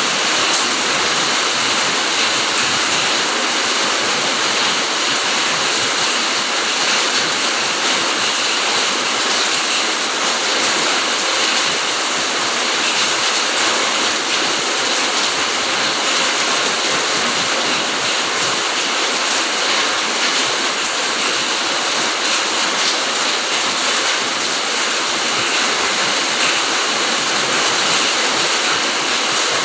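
Steady rain, an even, unbroken hiss of many falling drops.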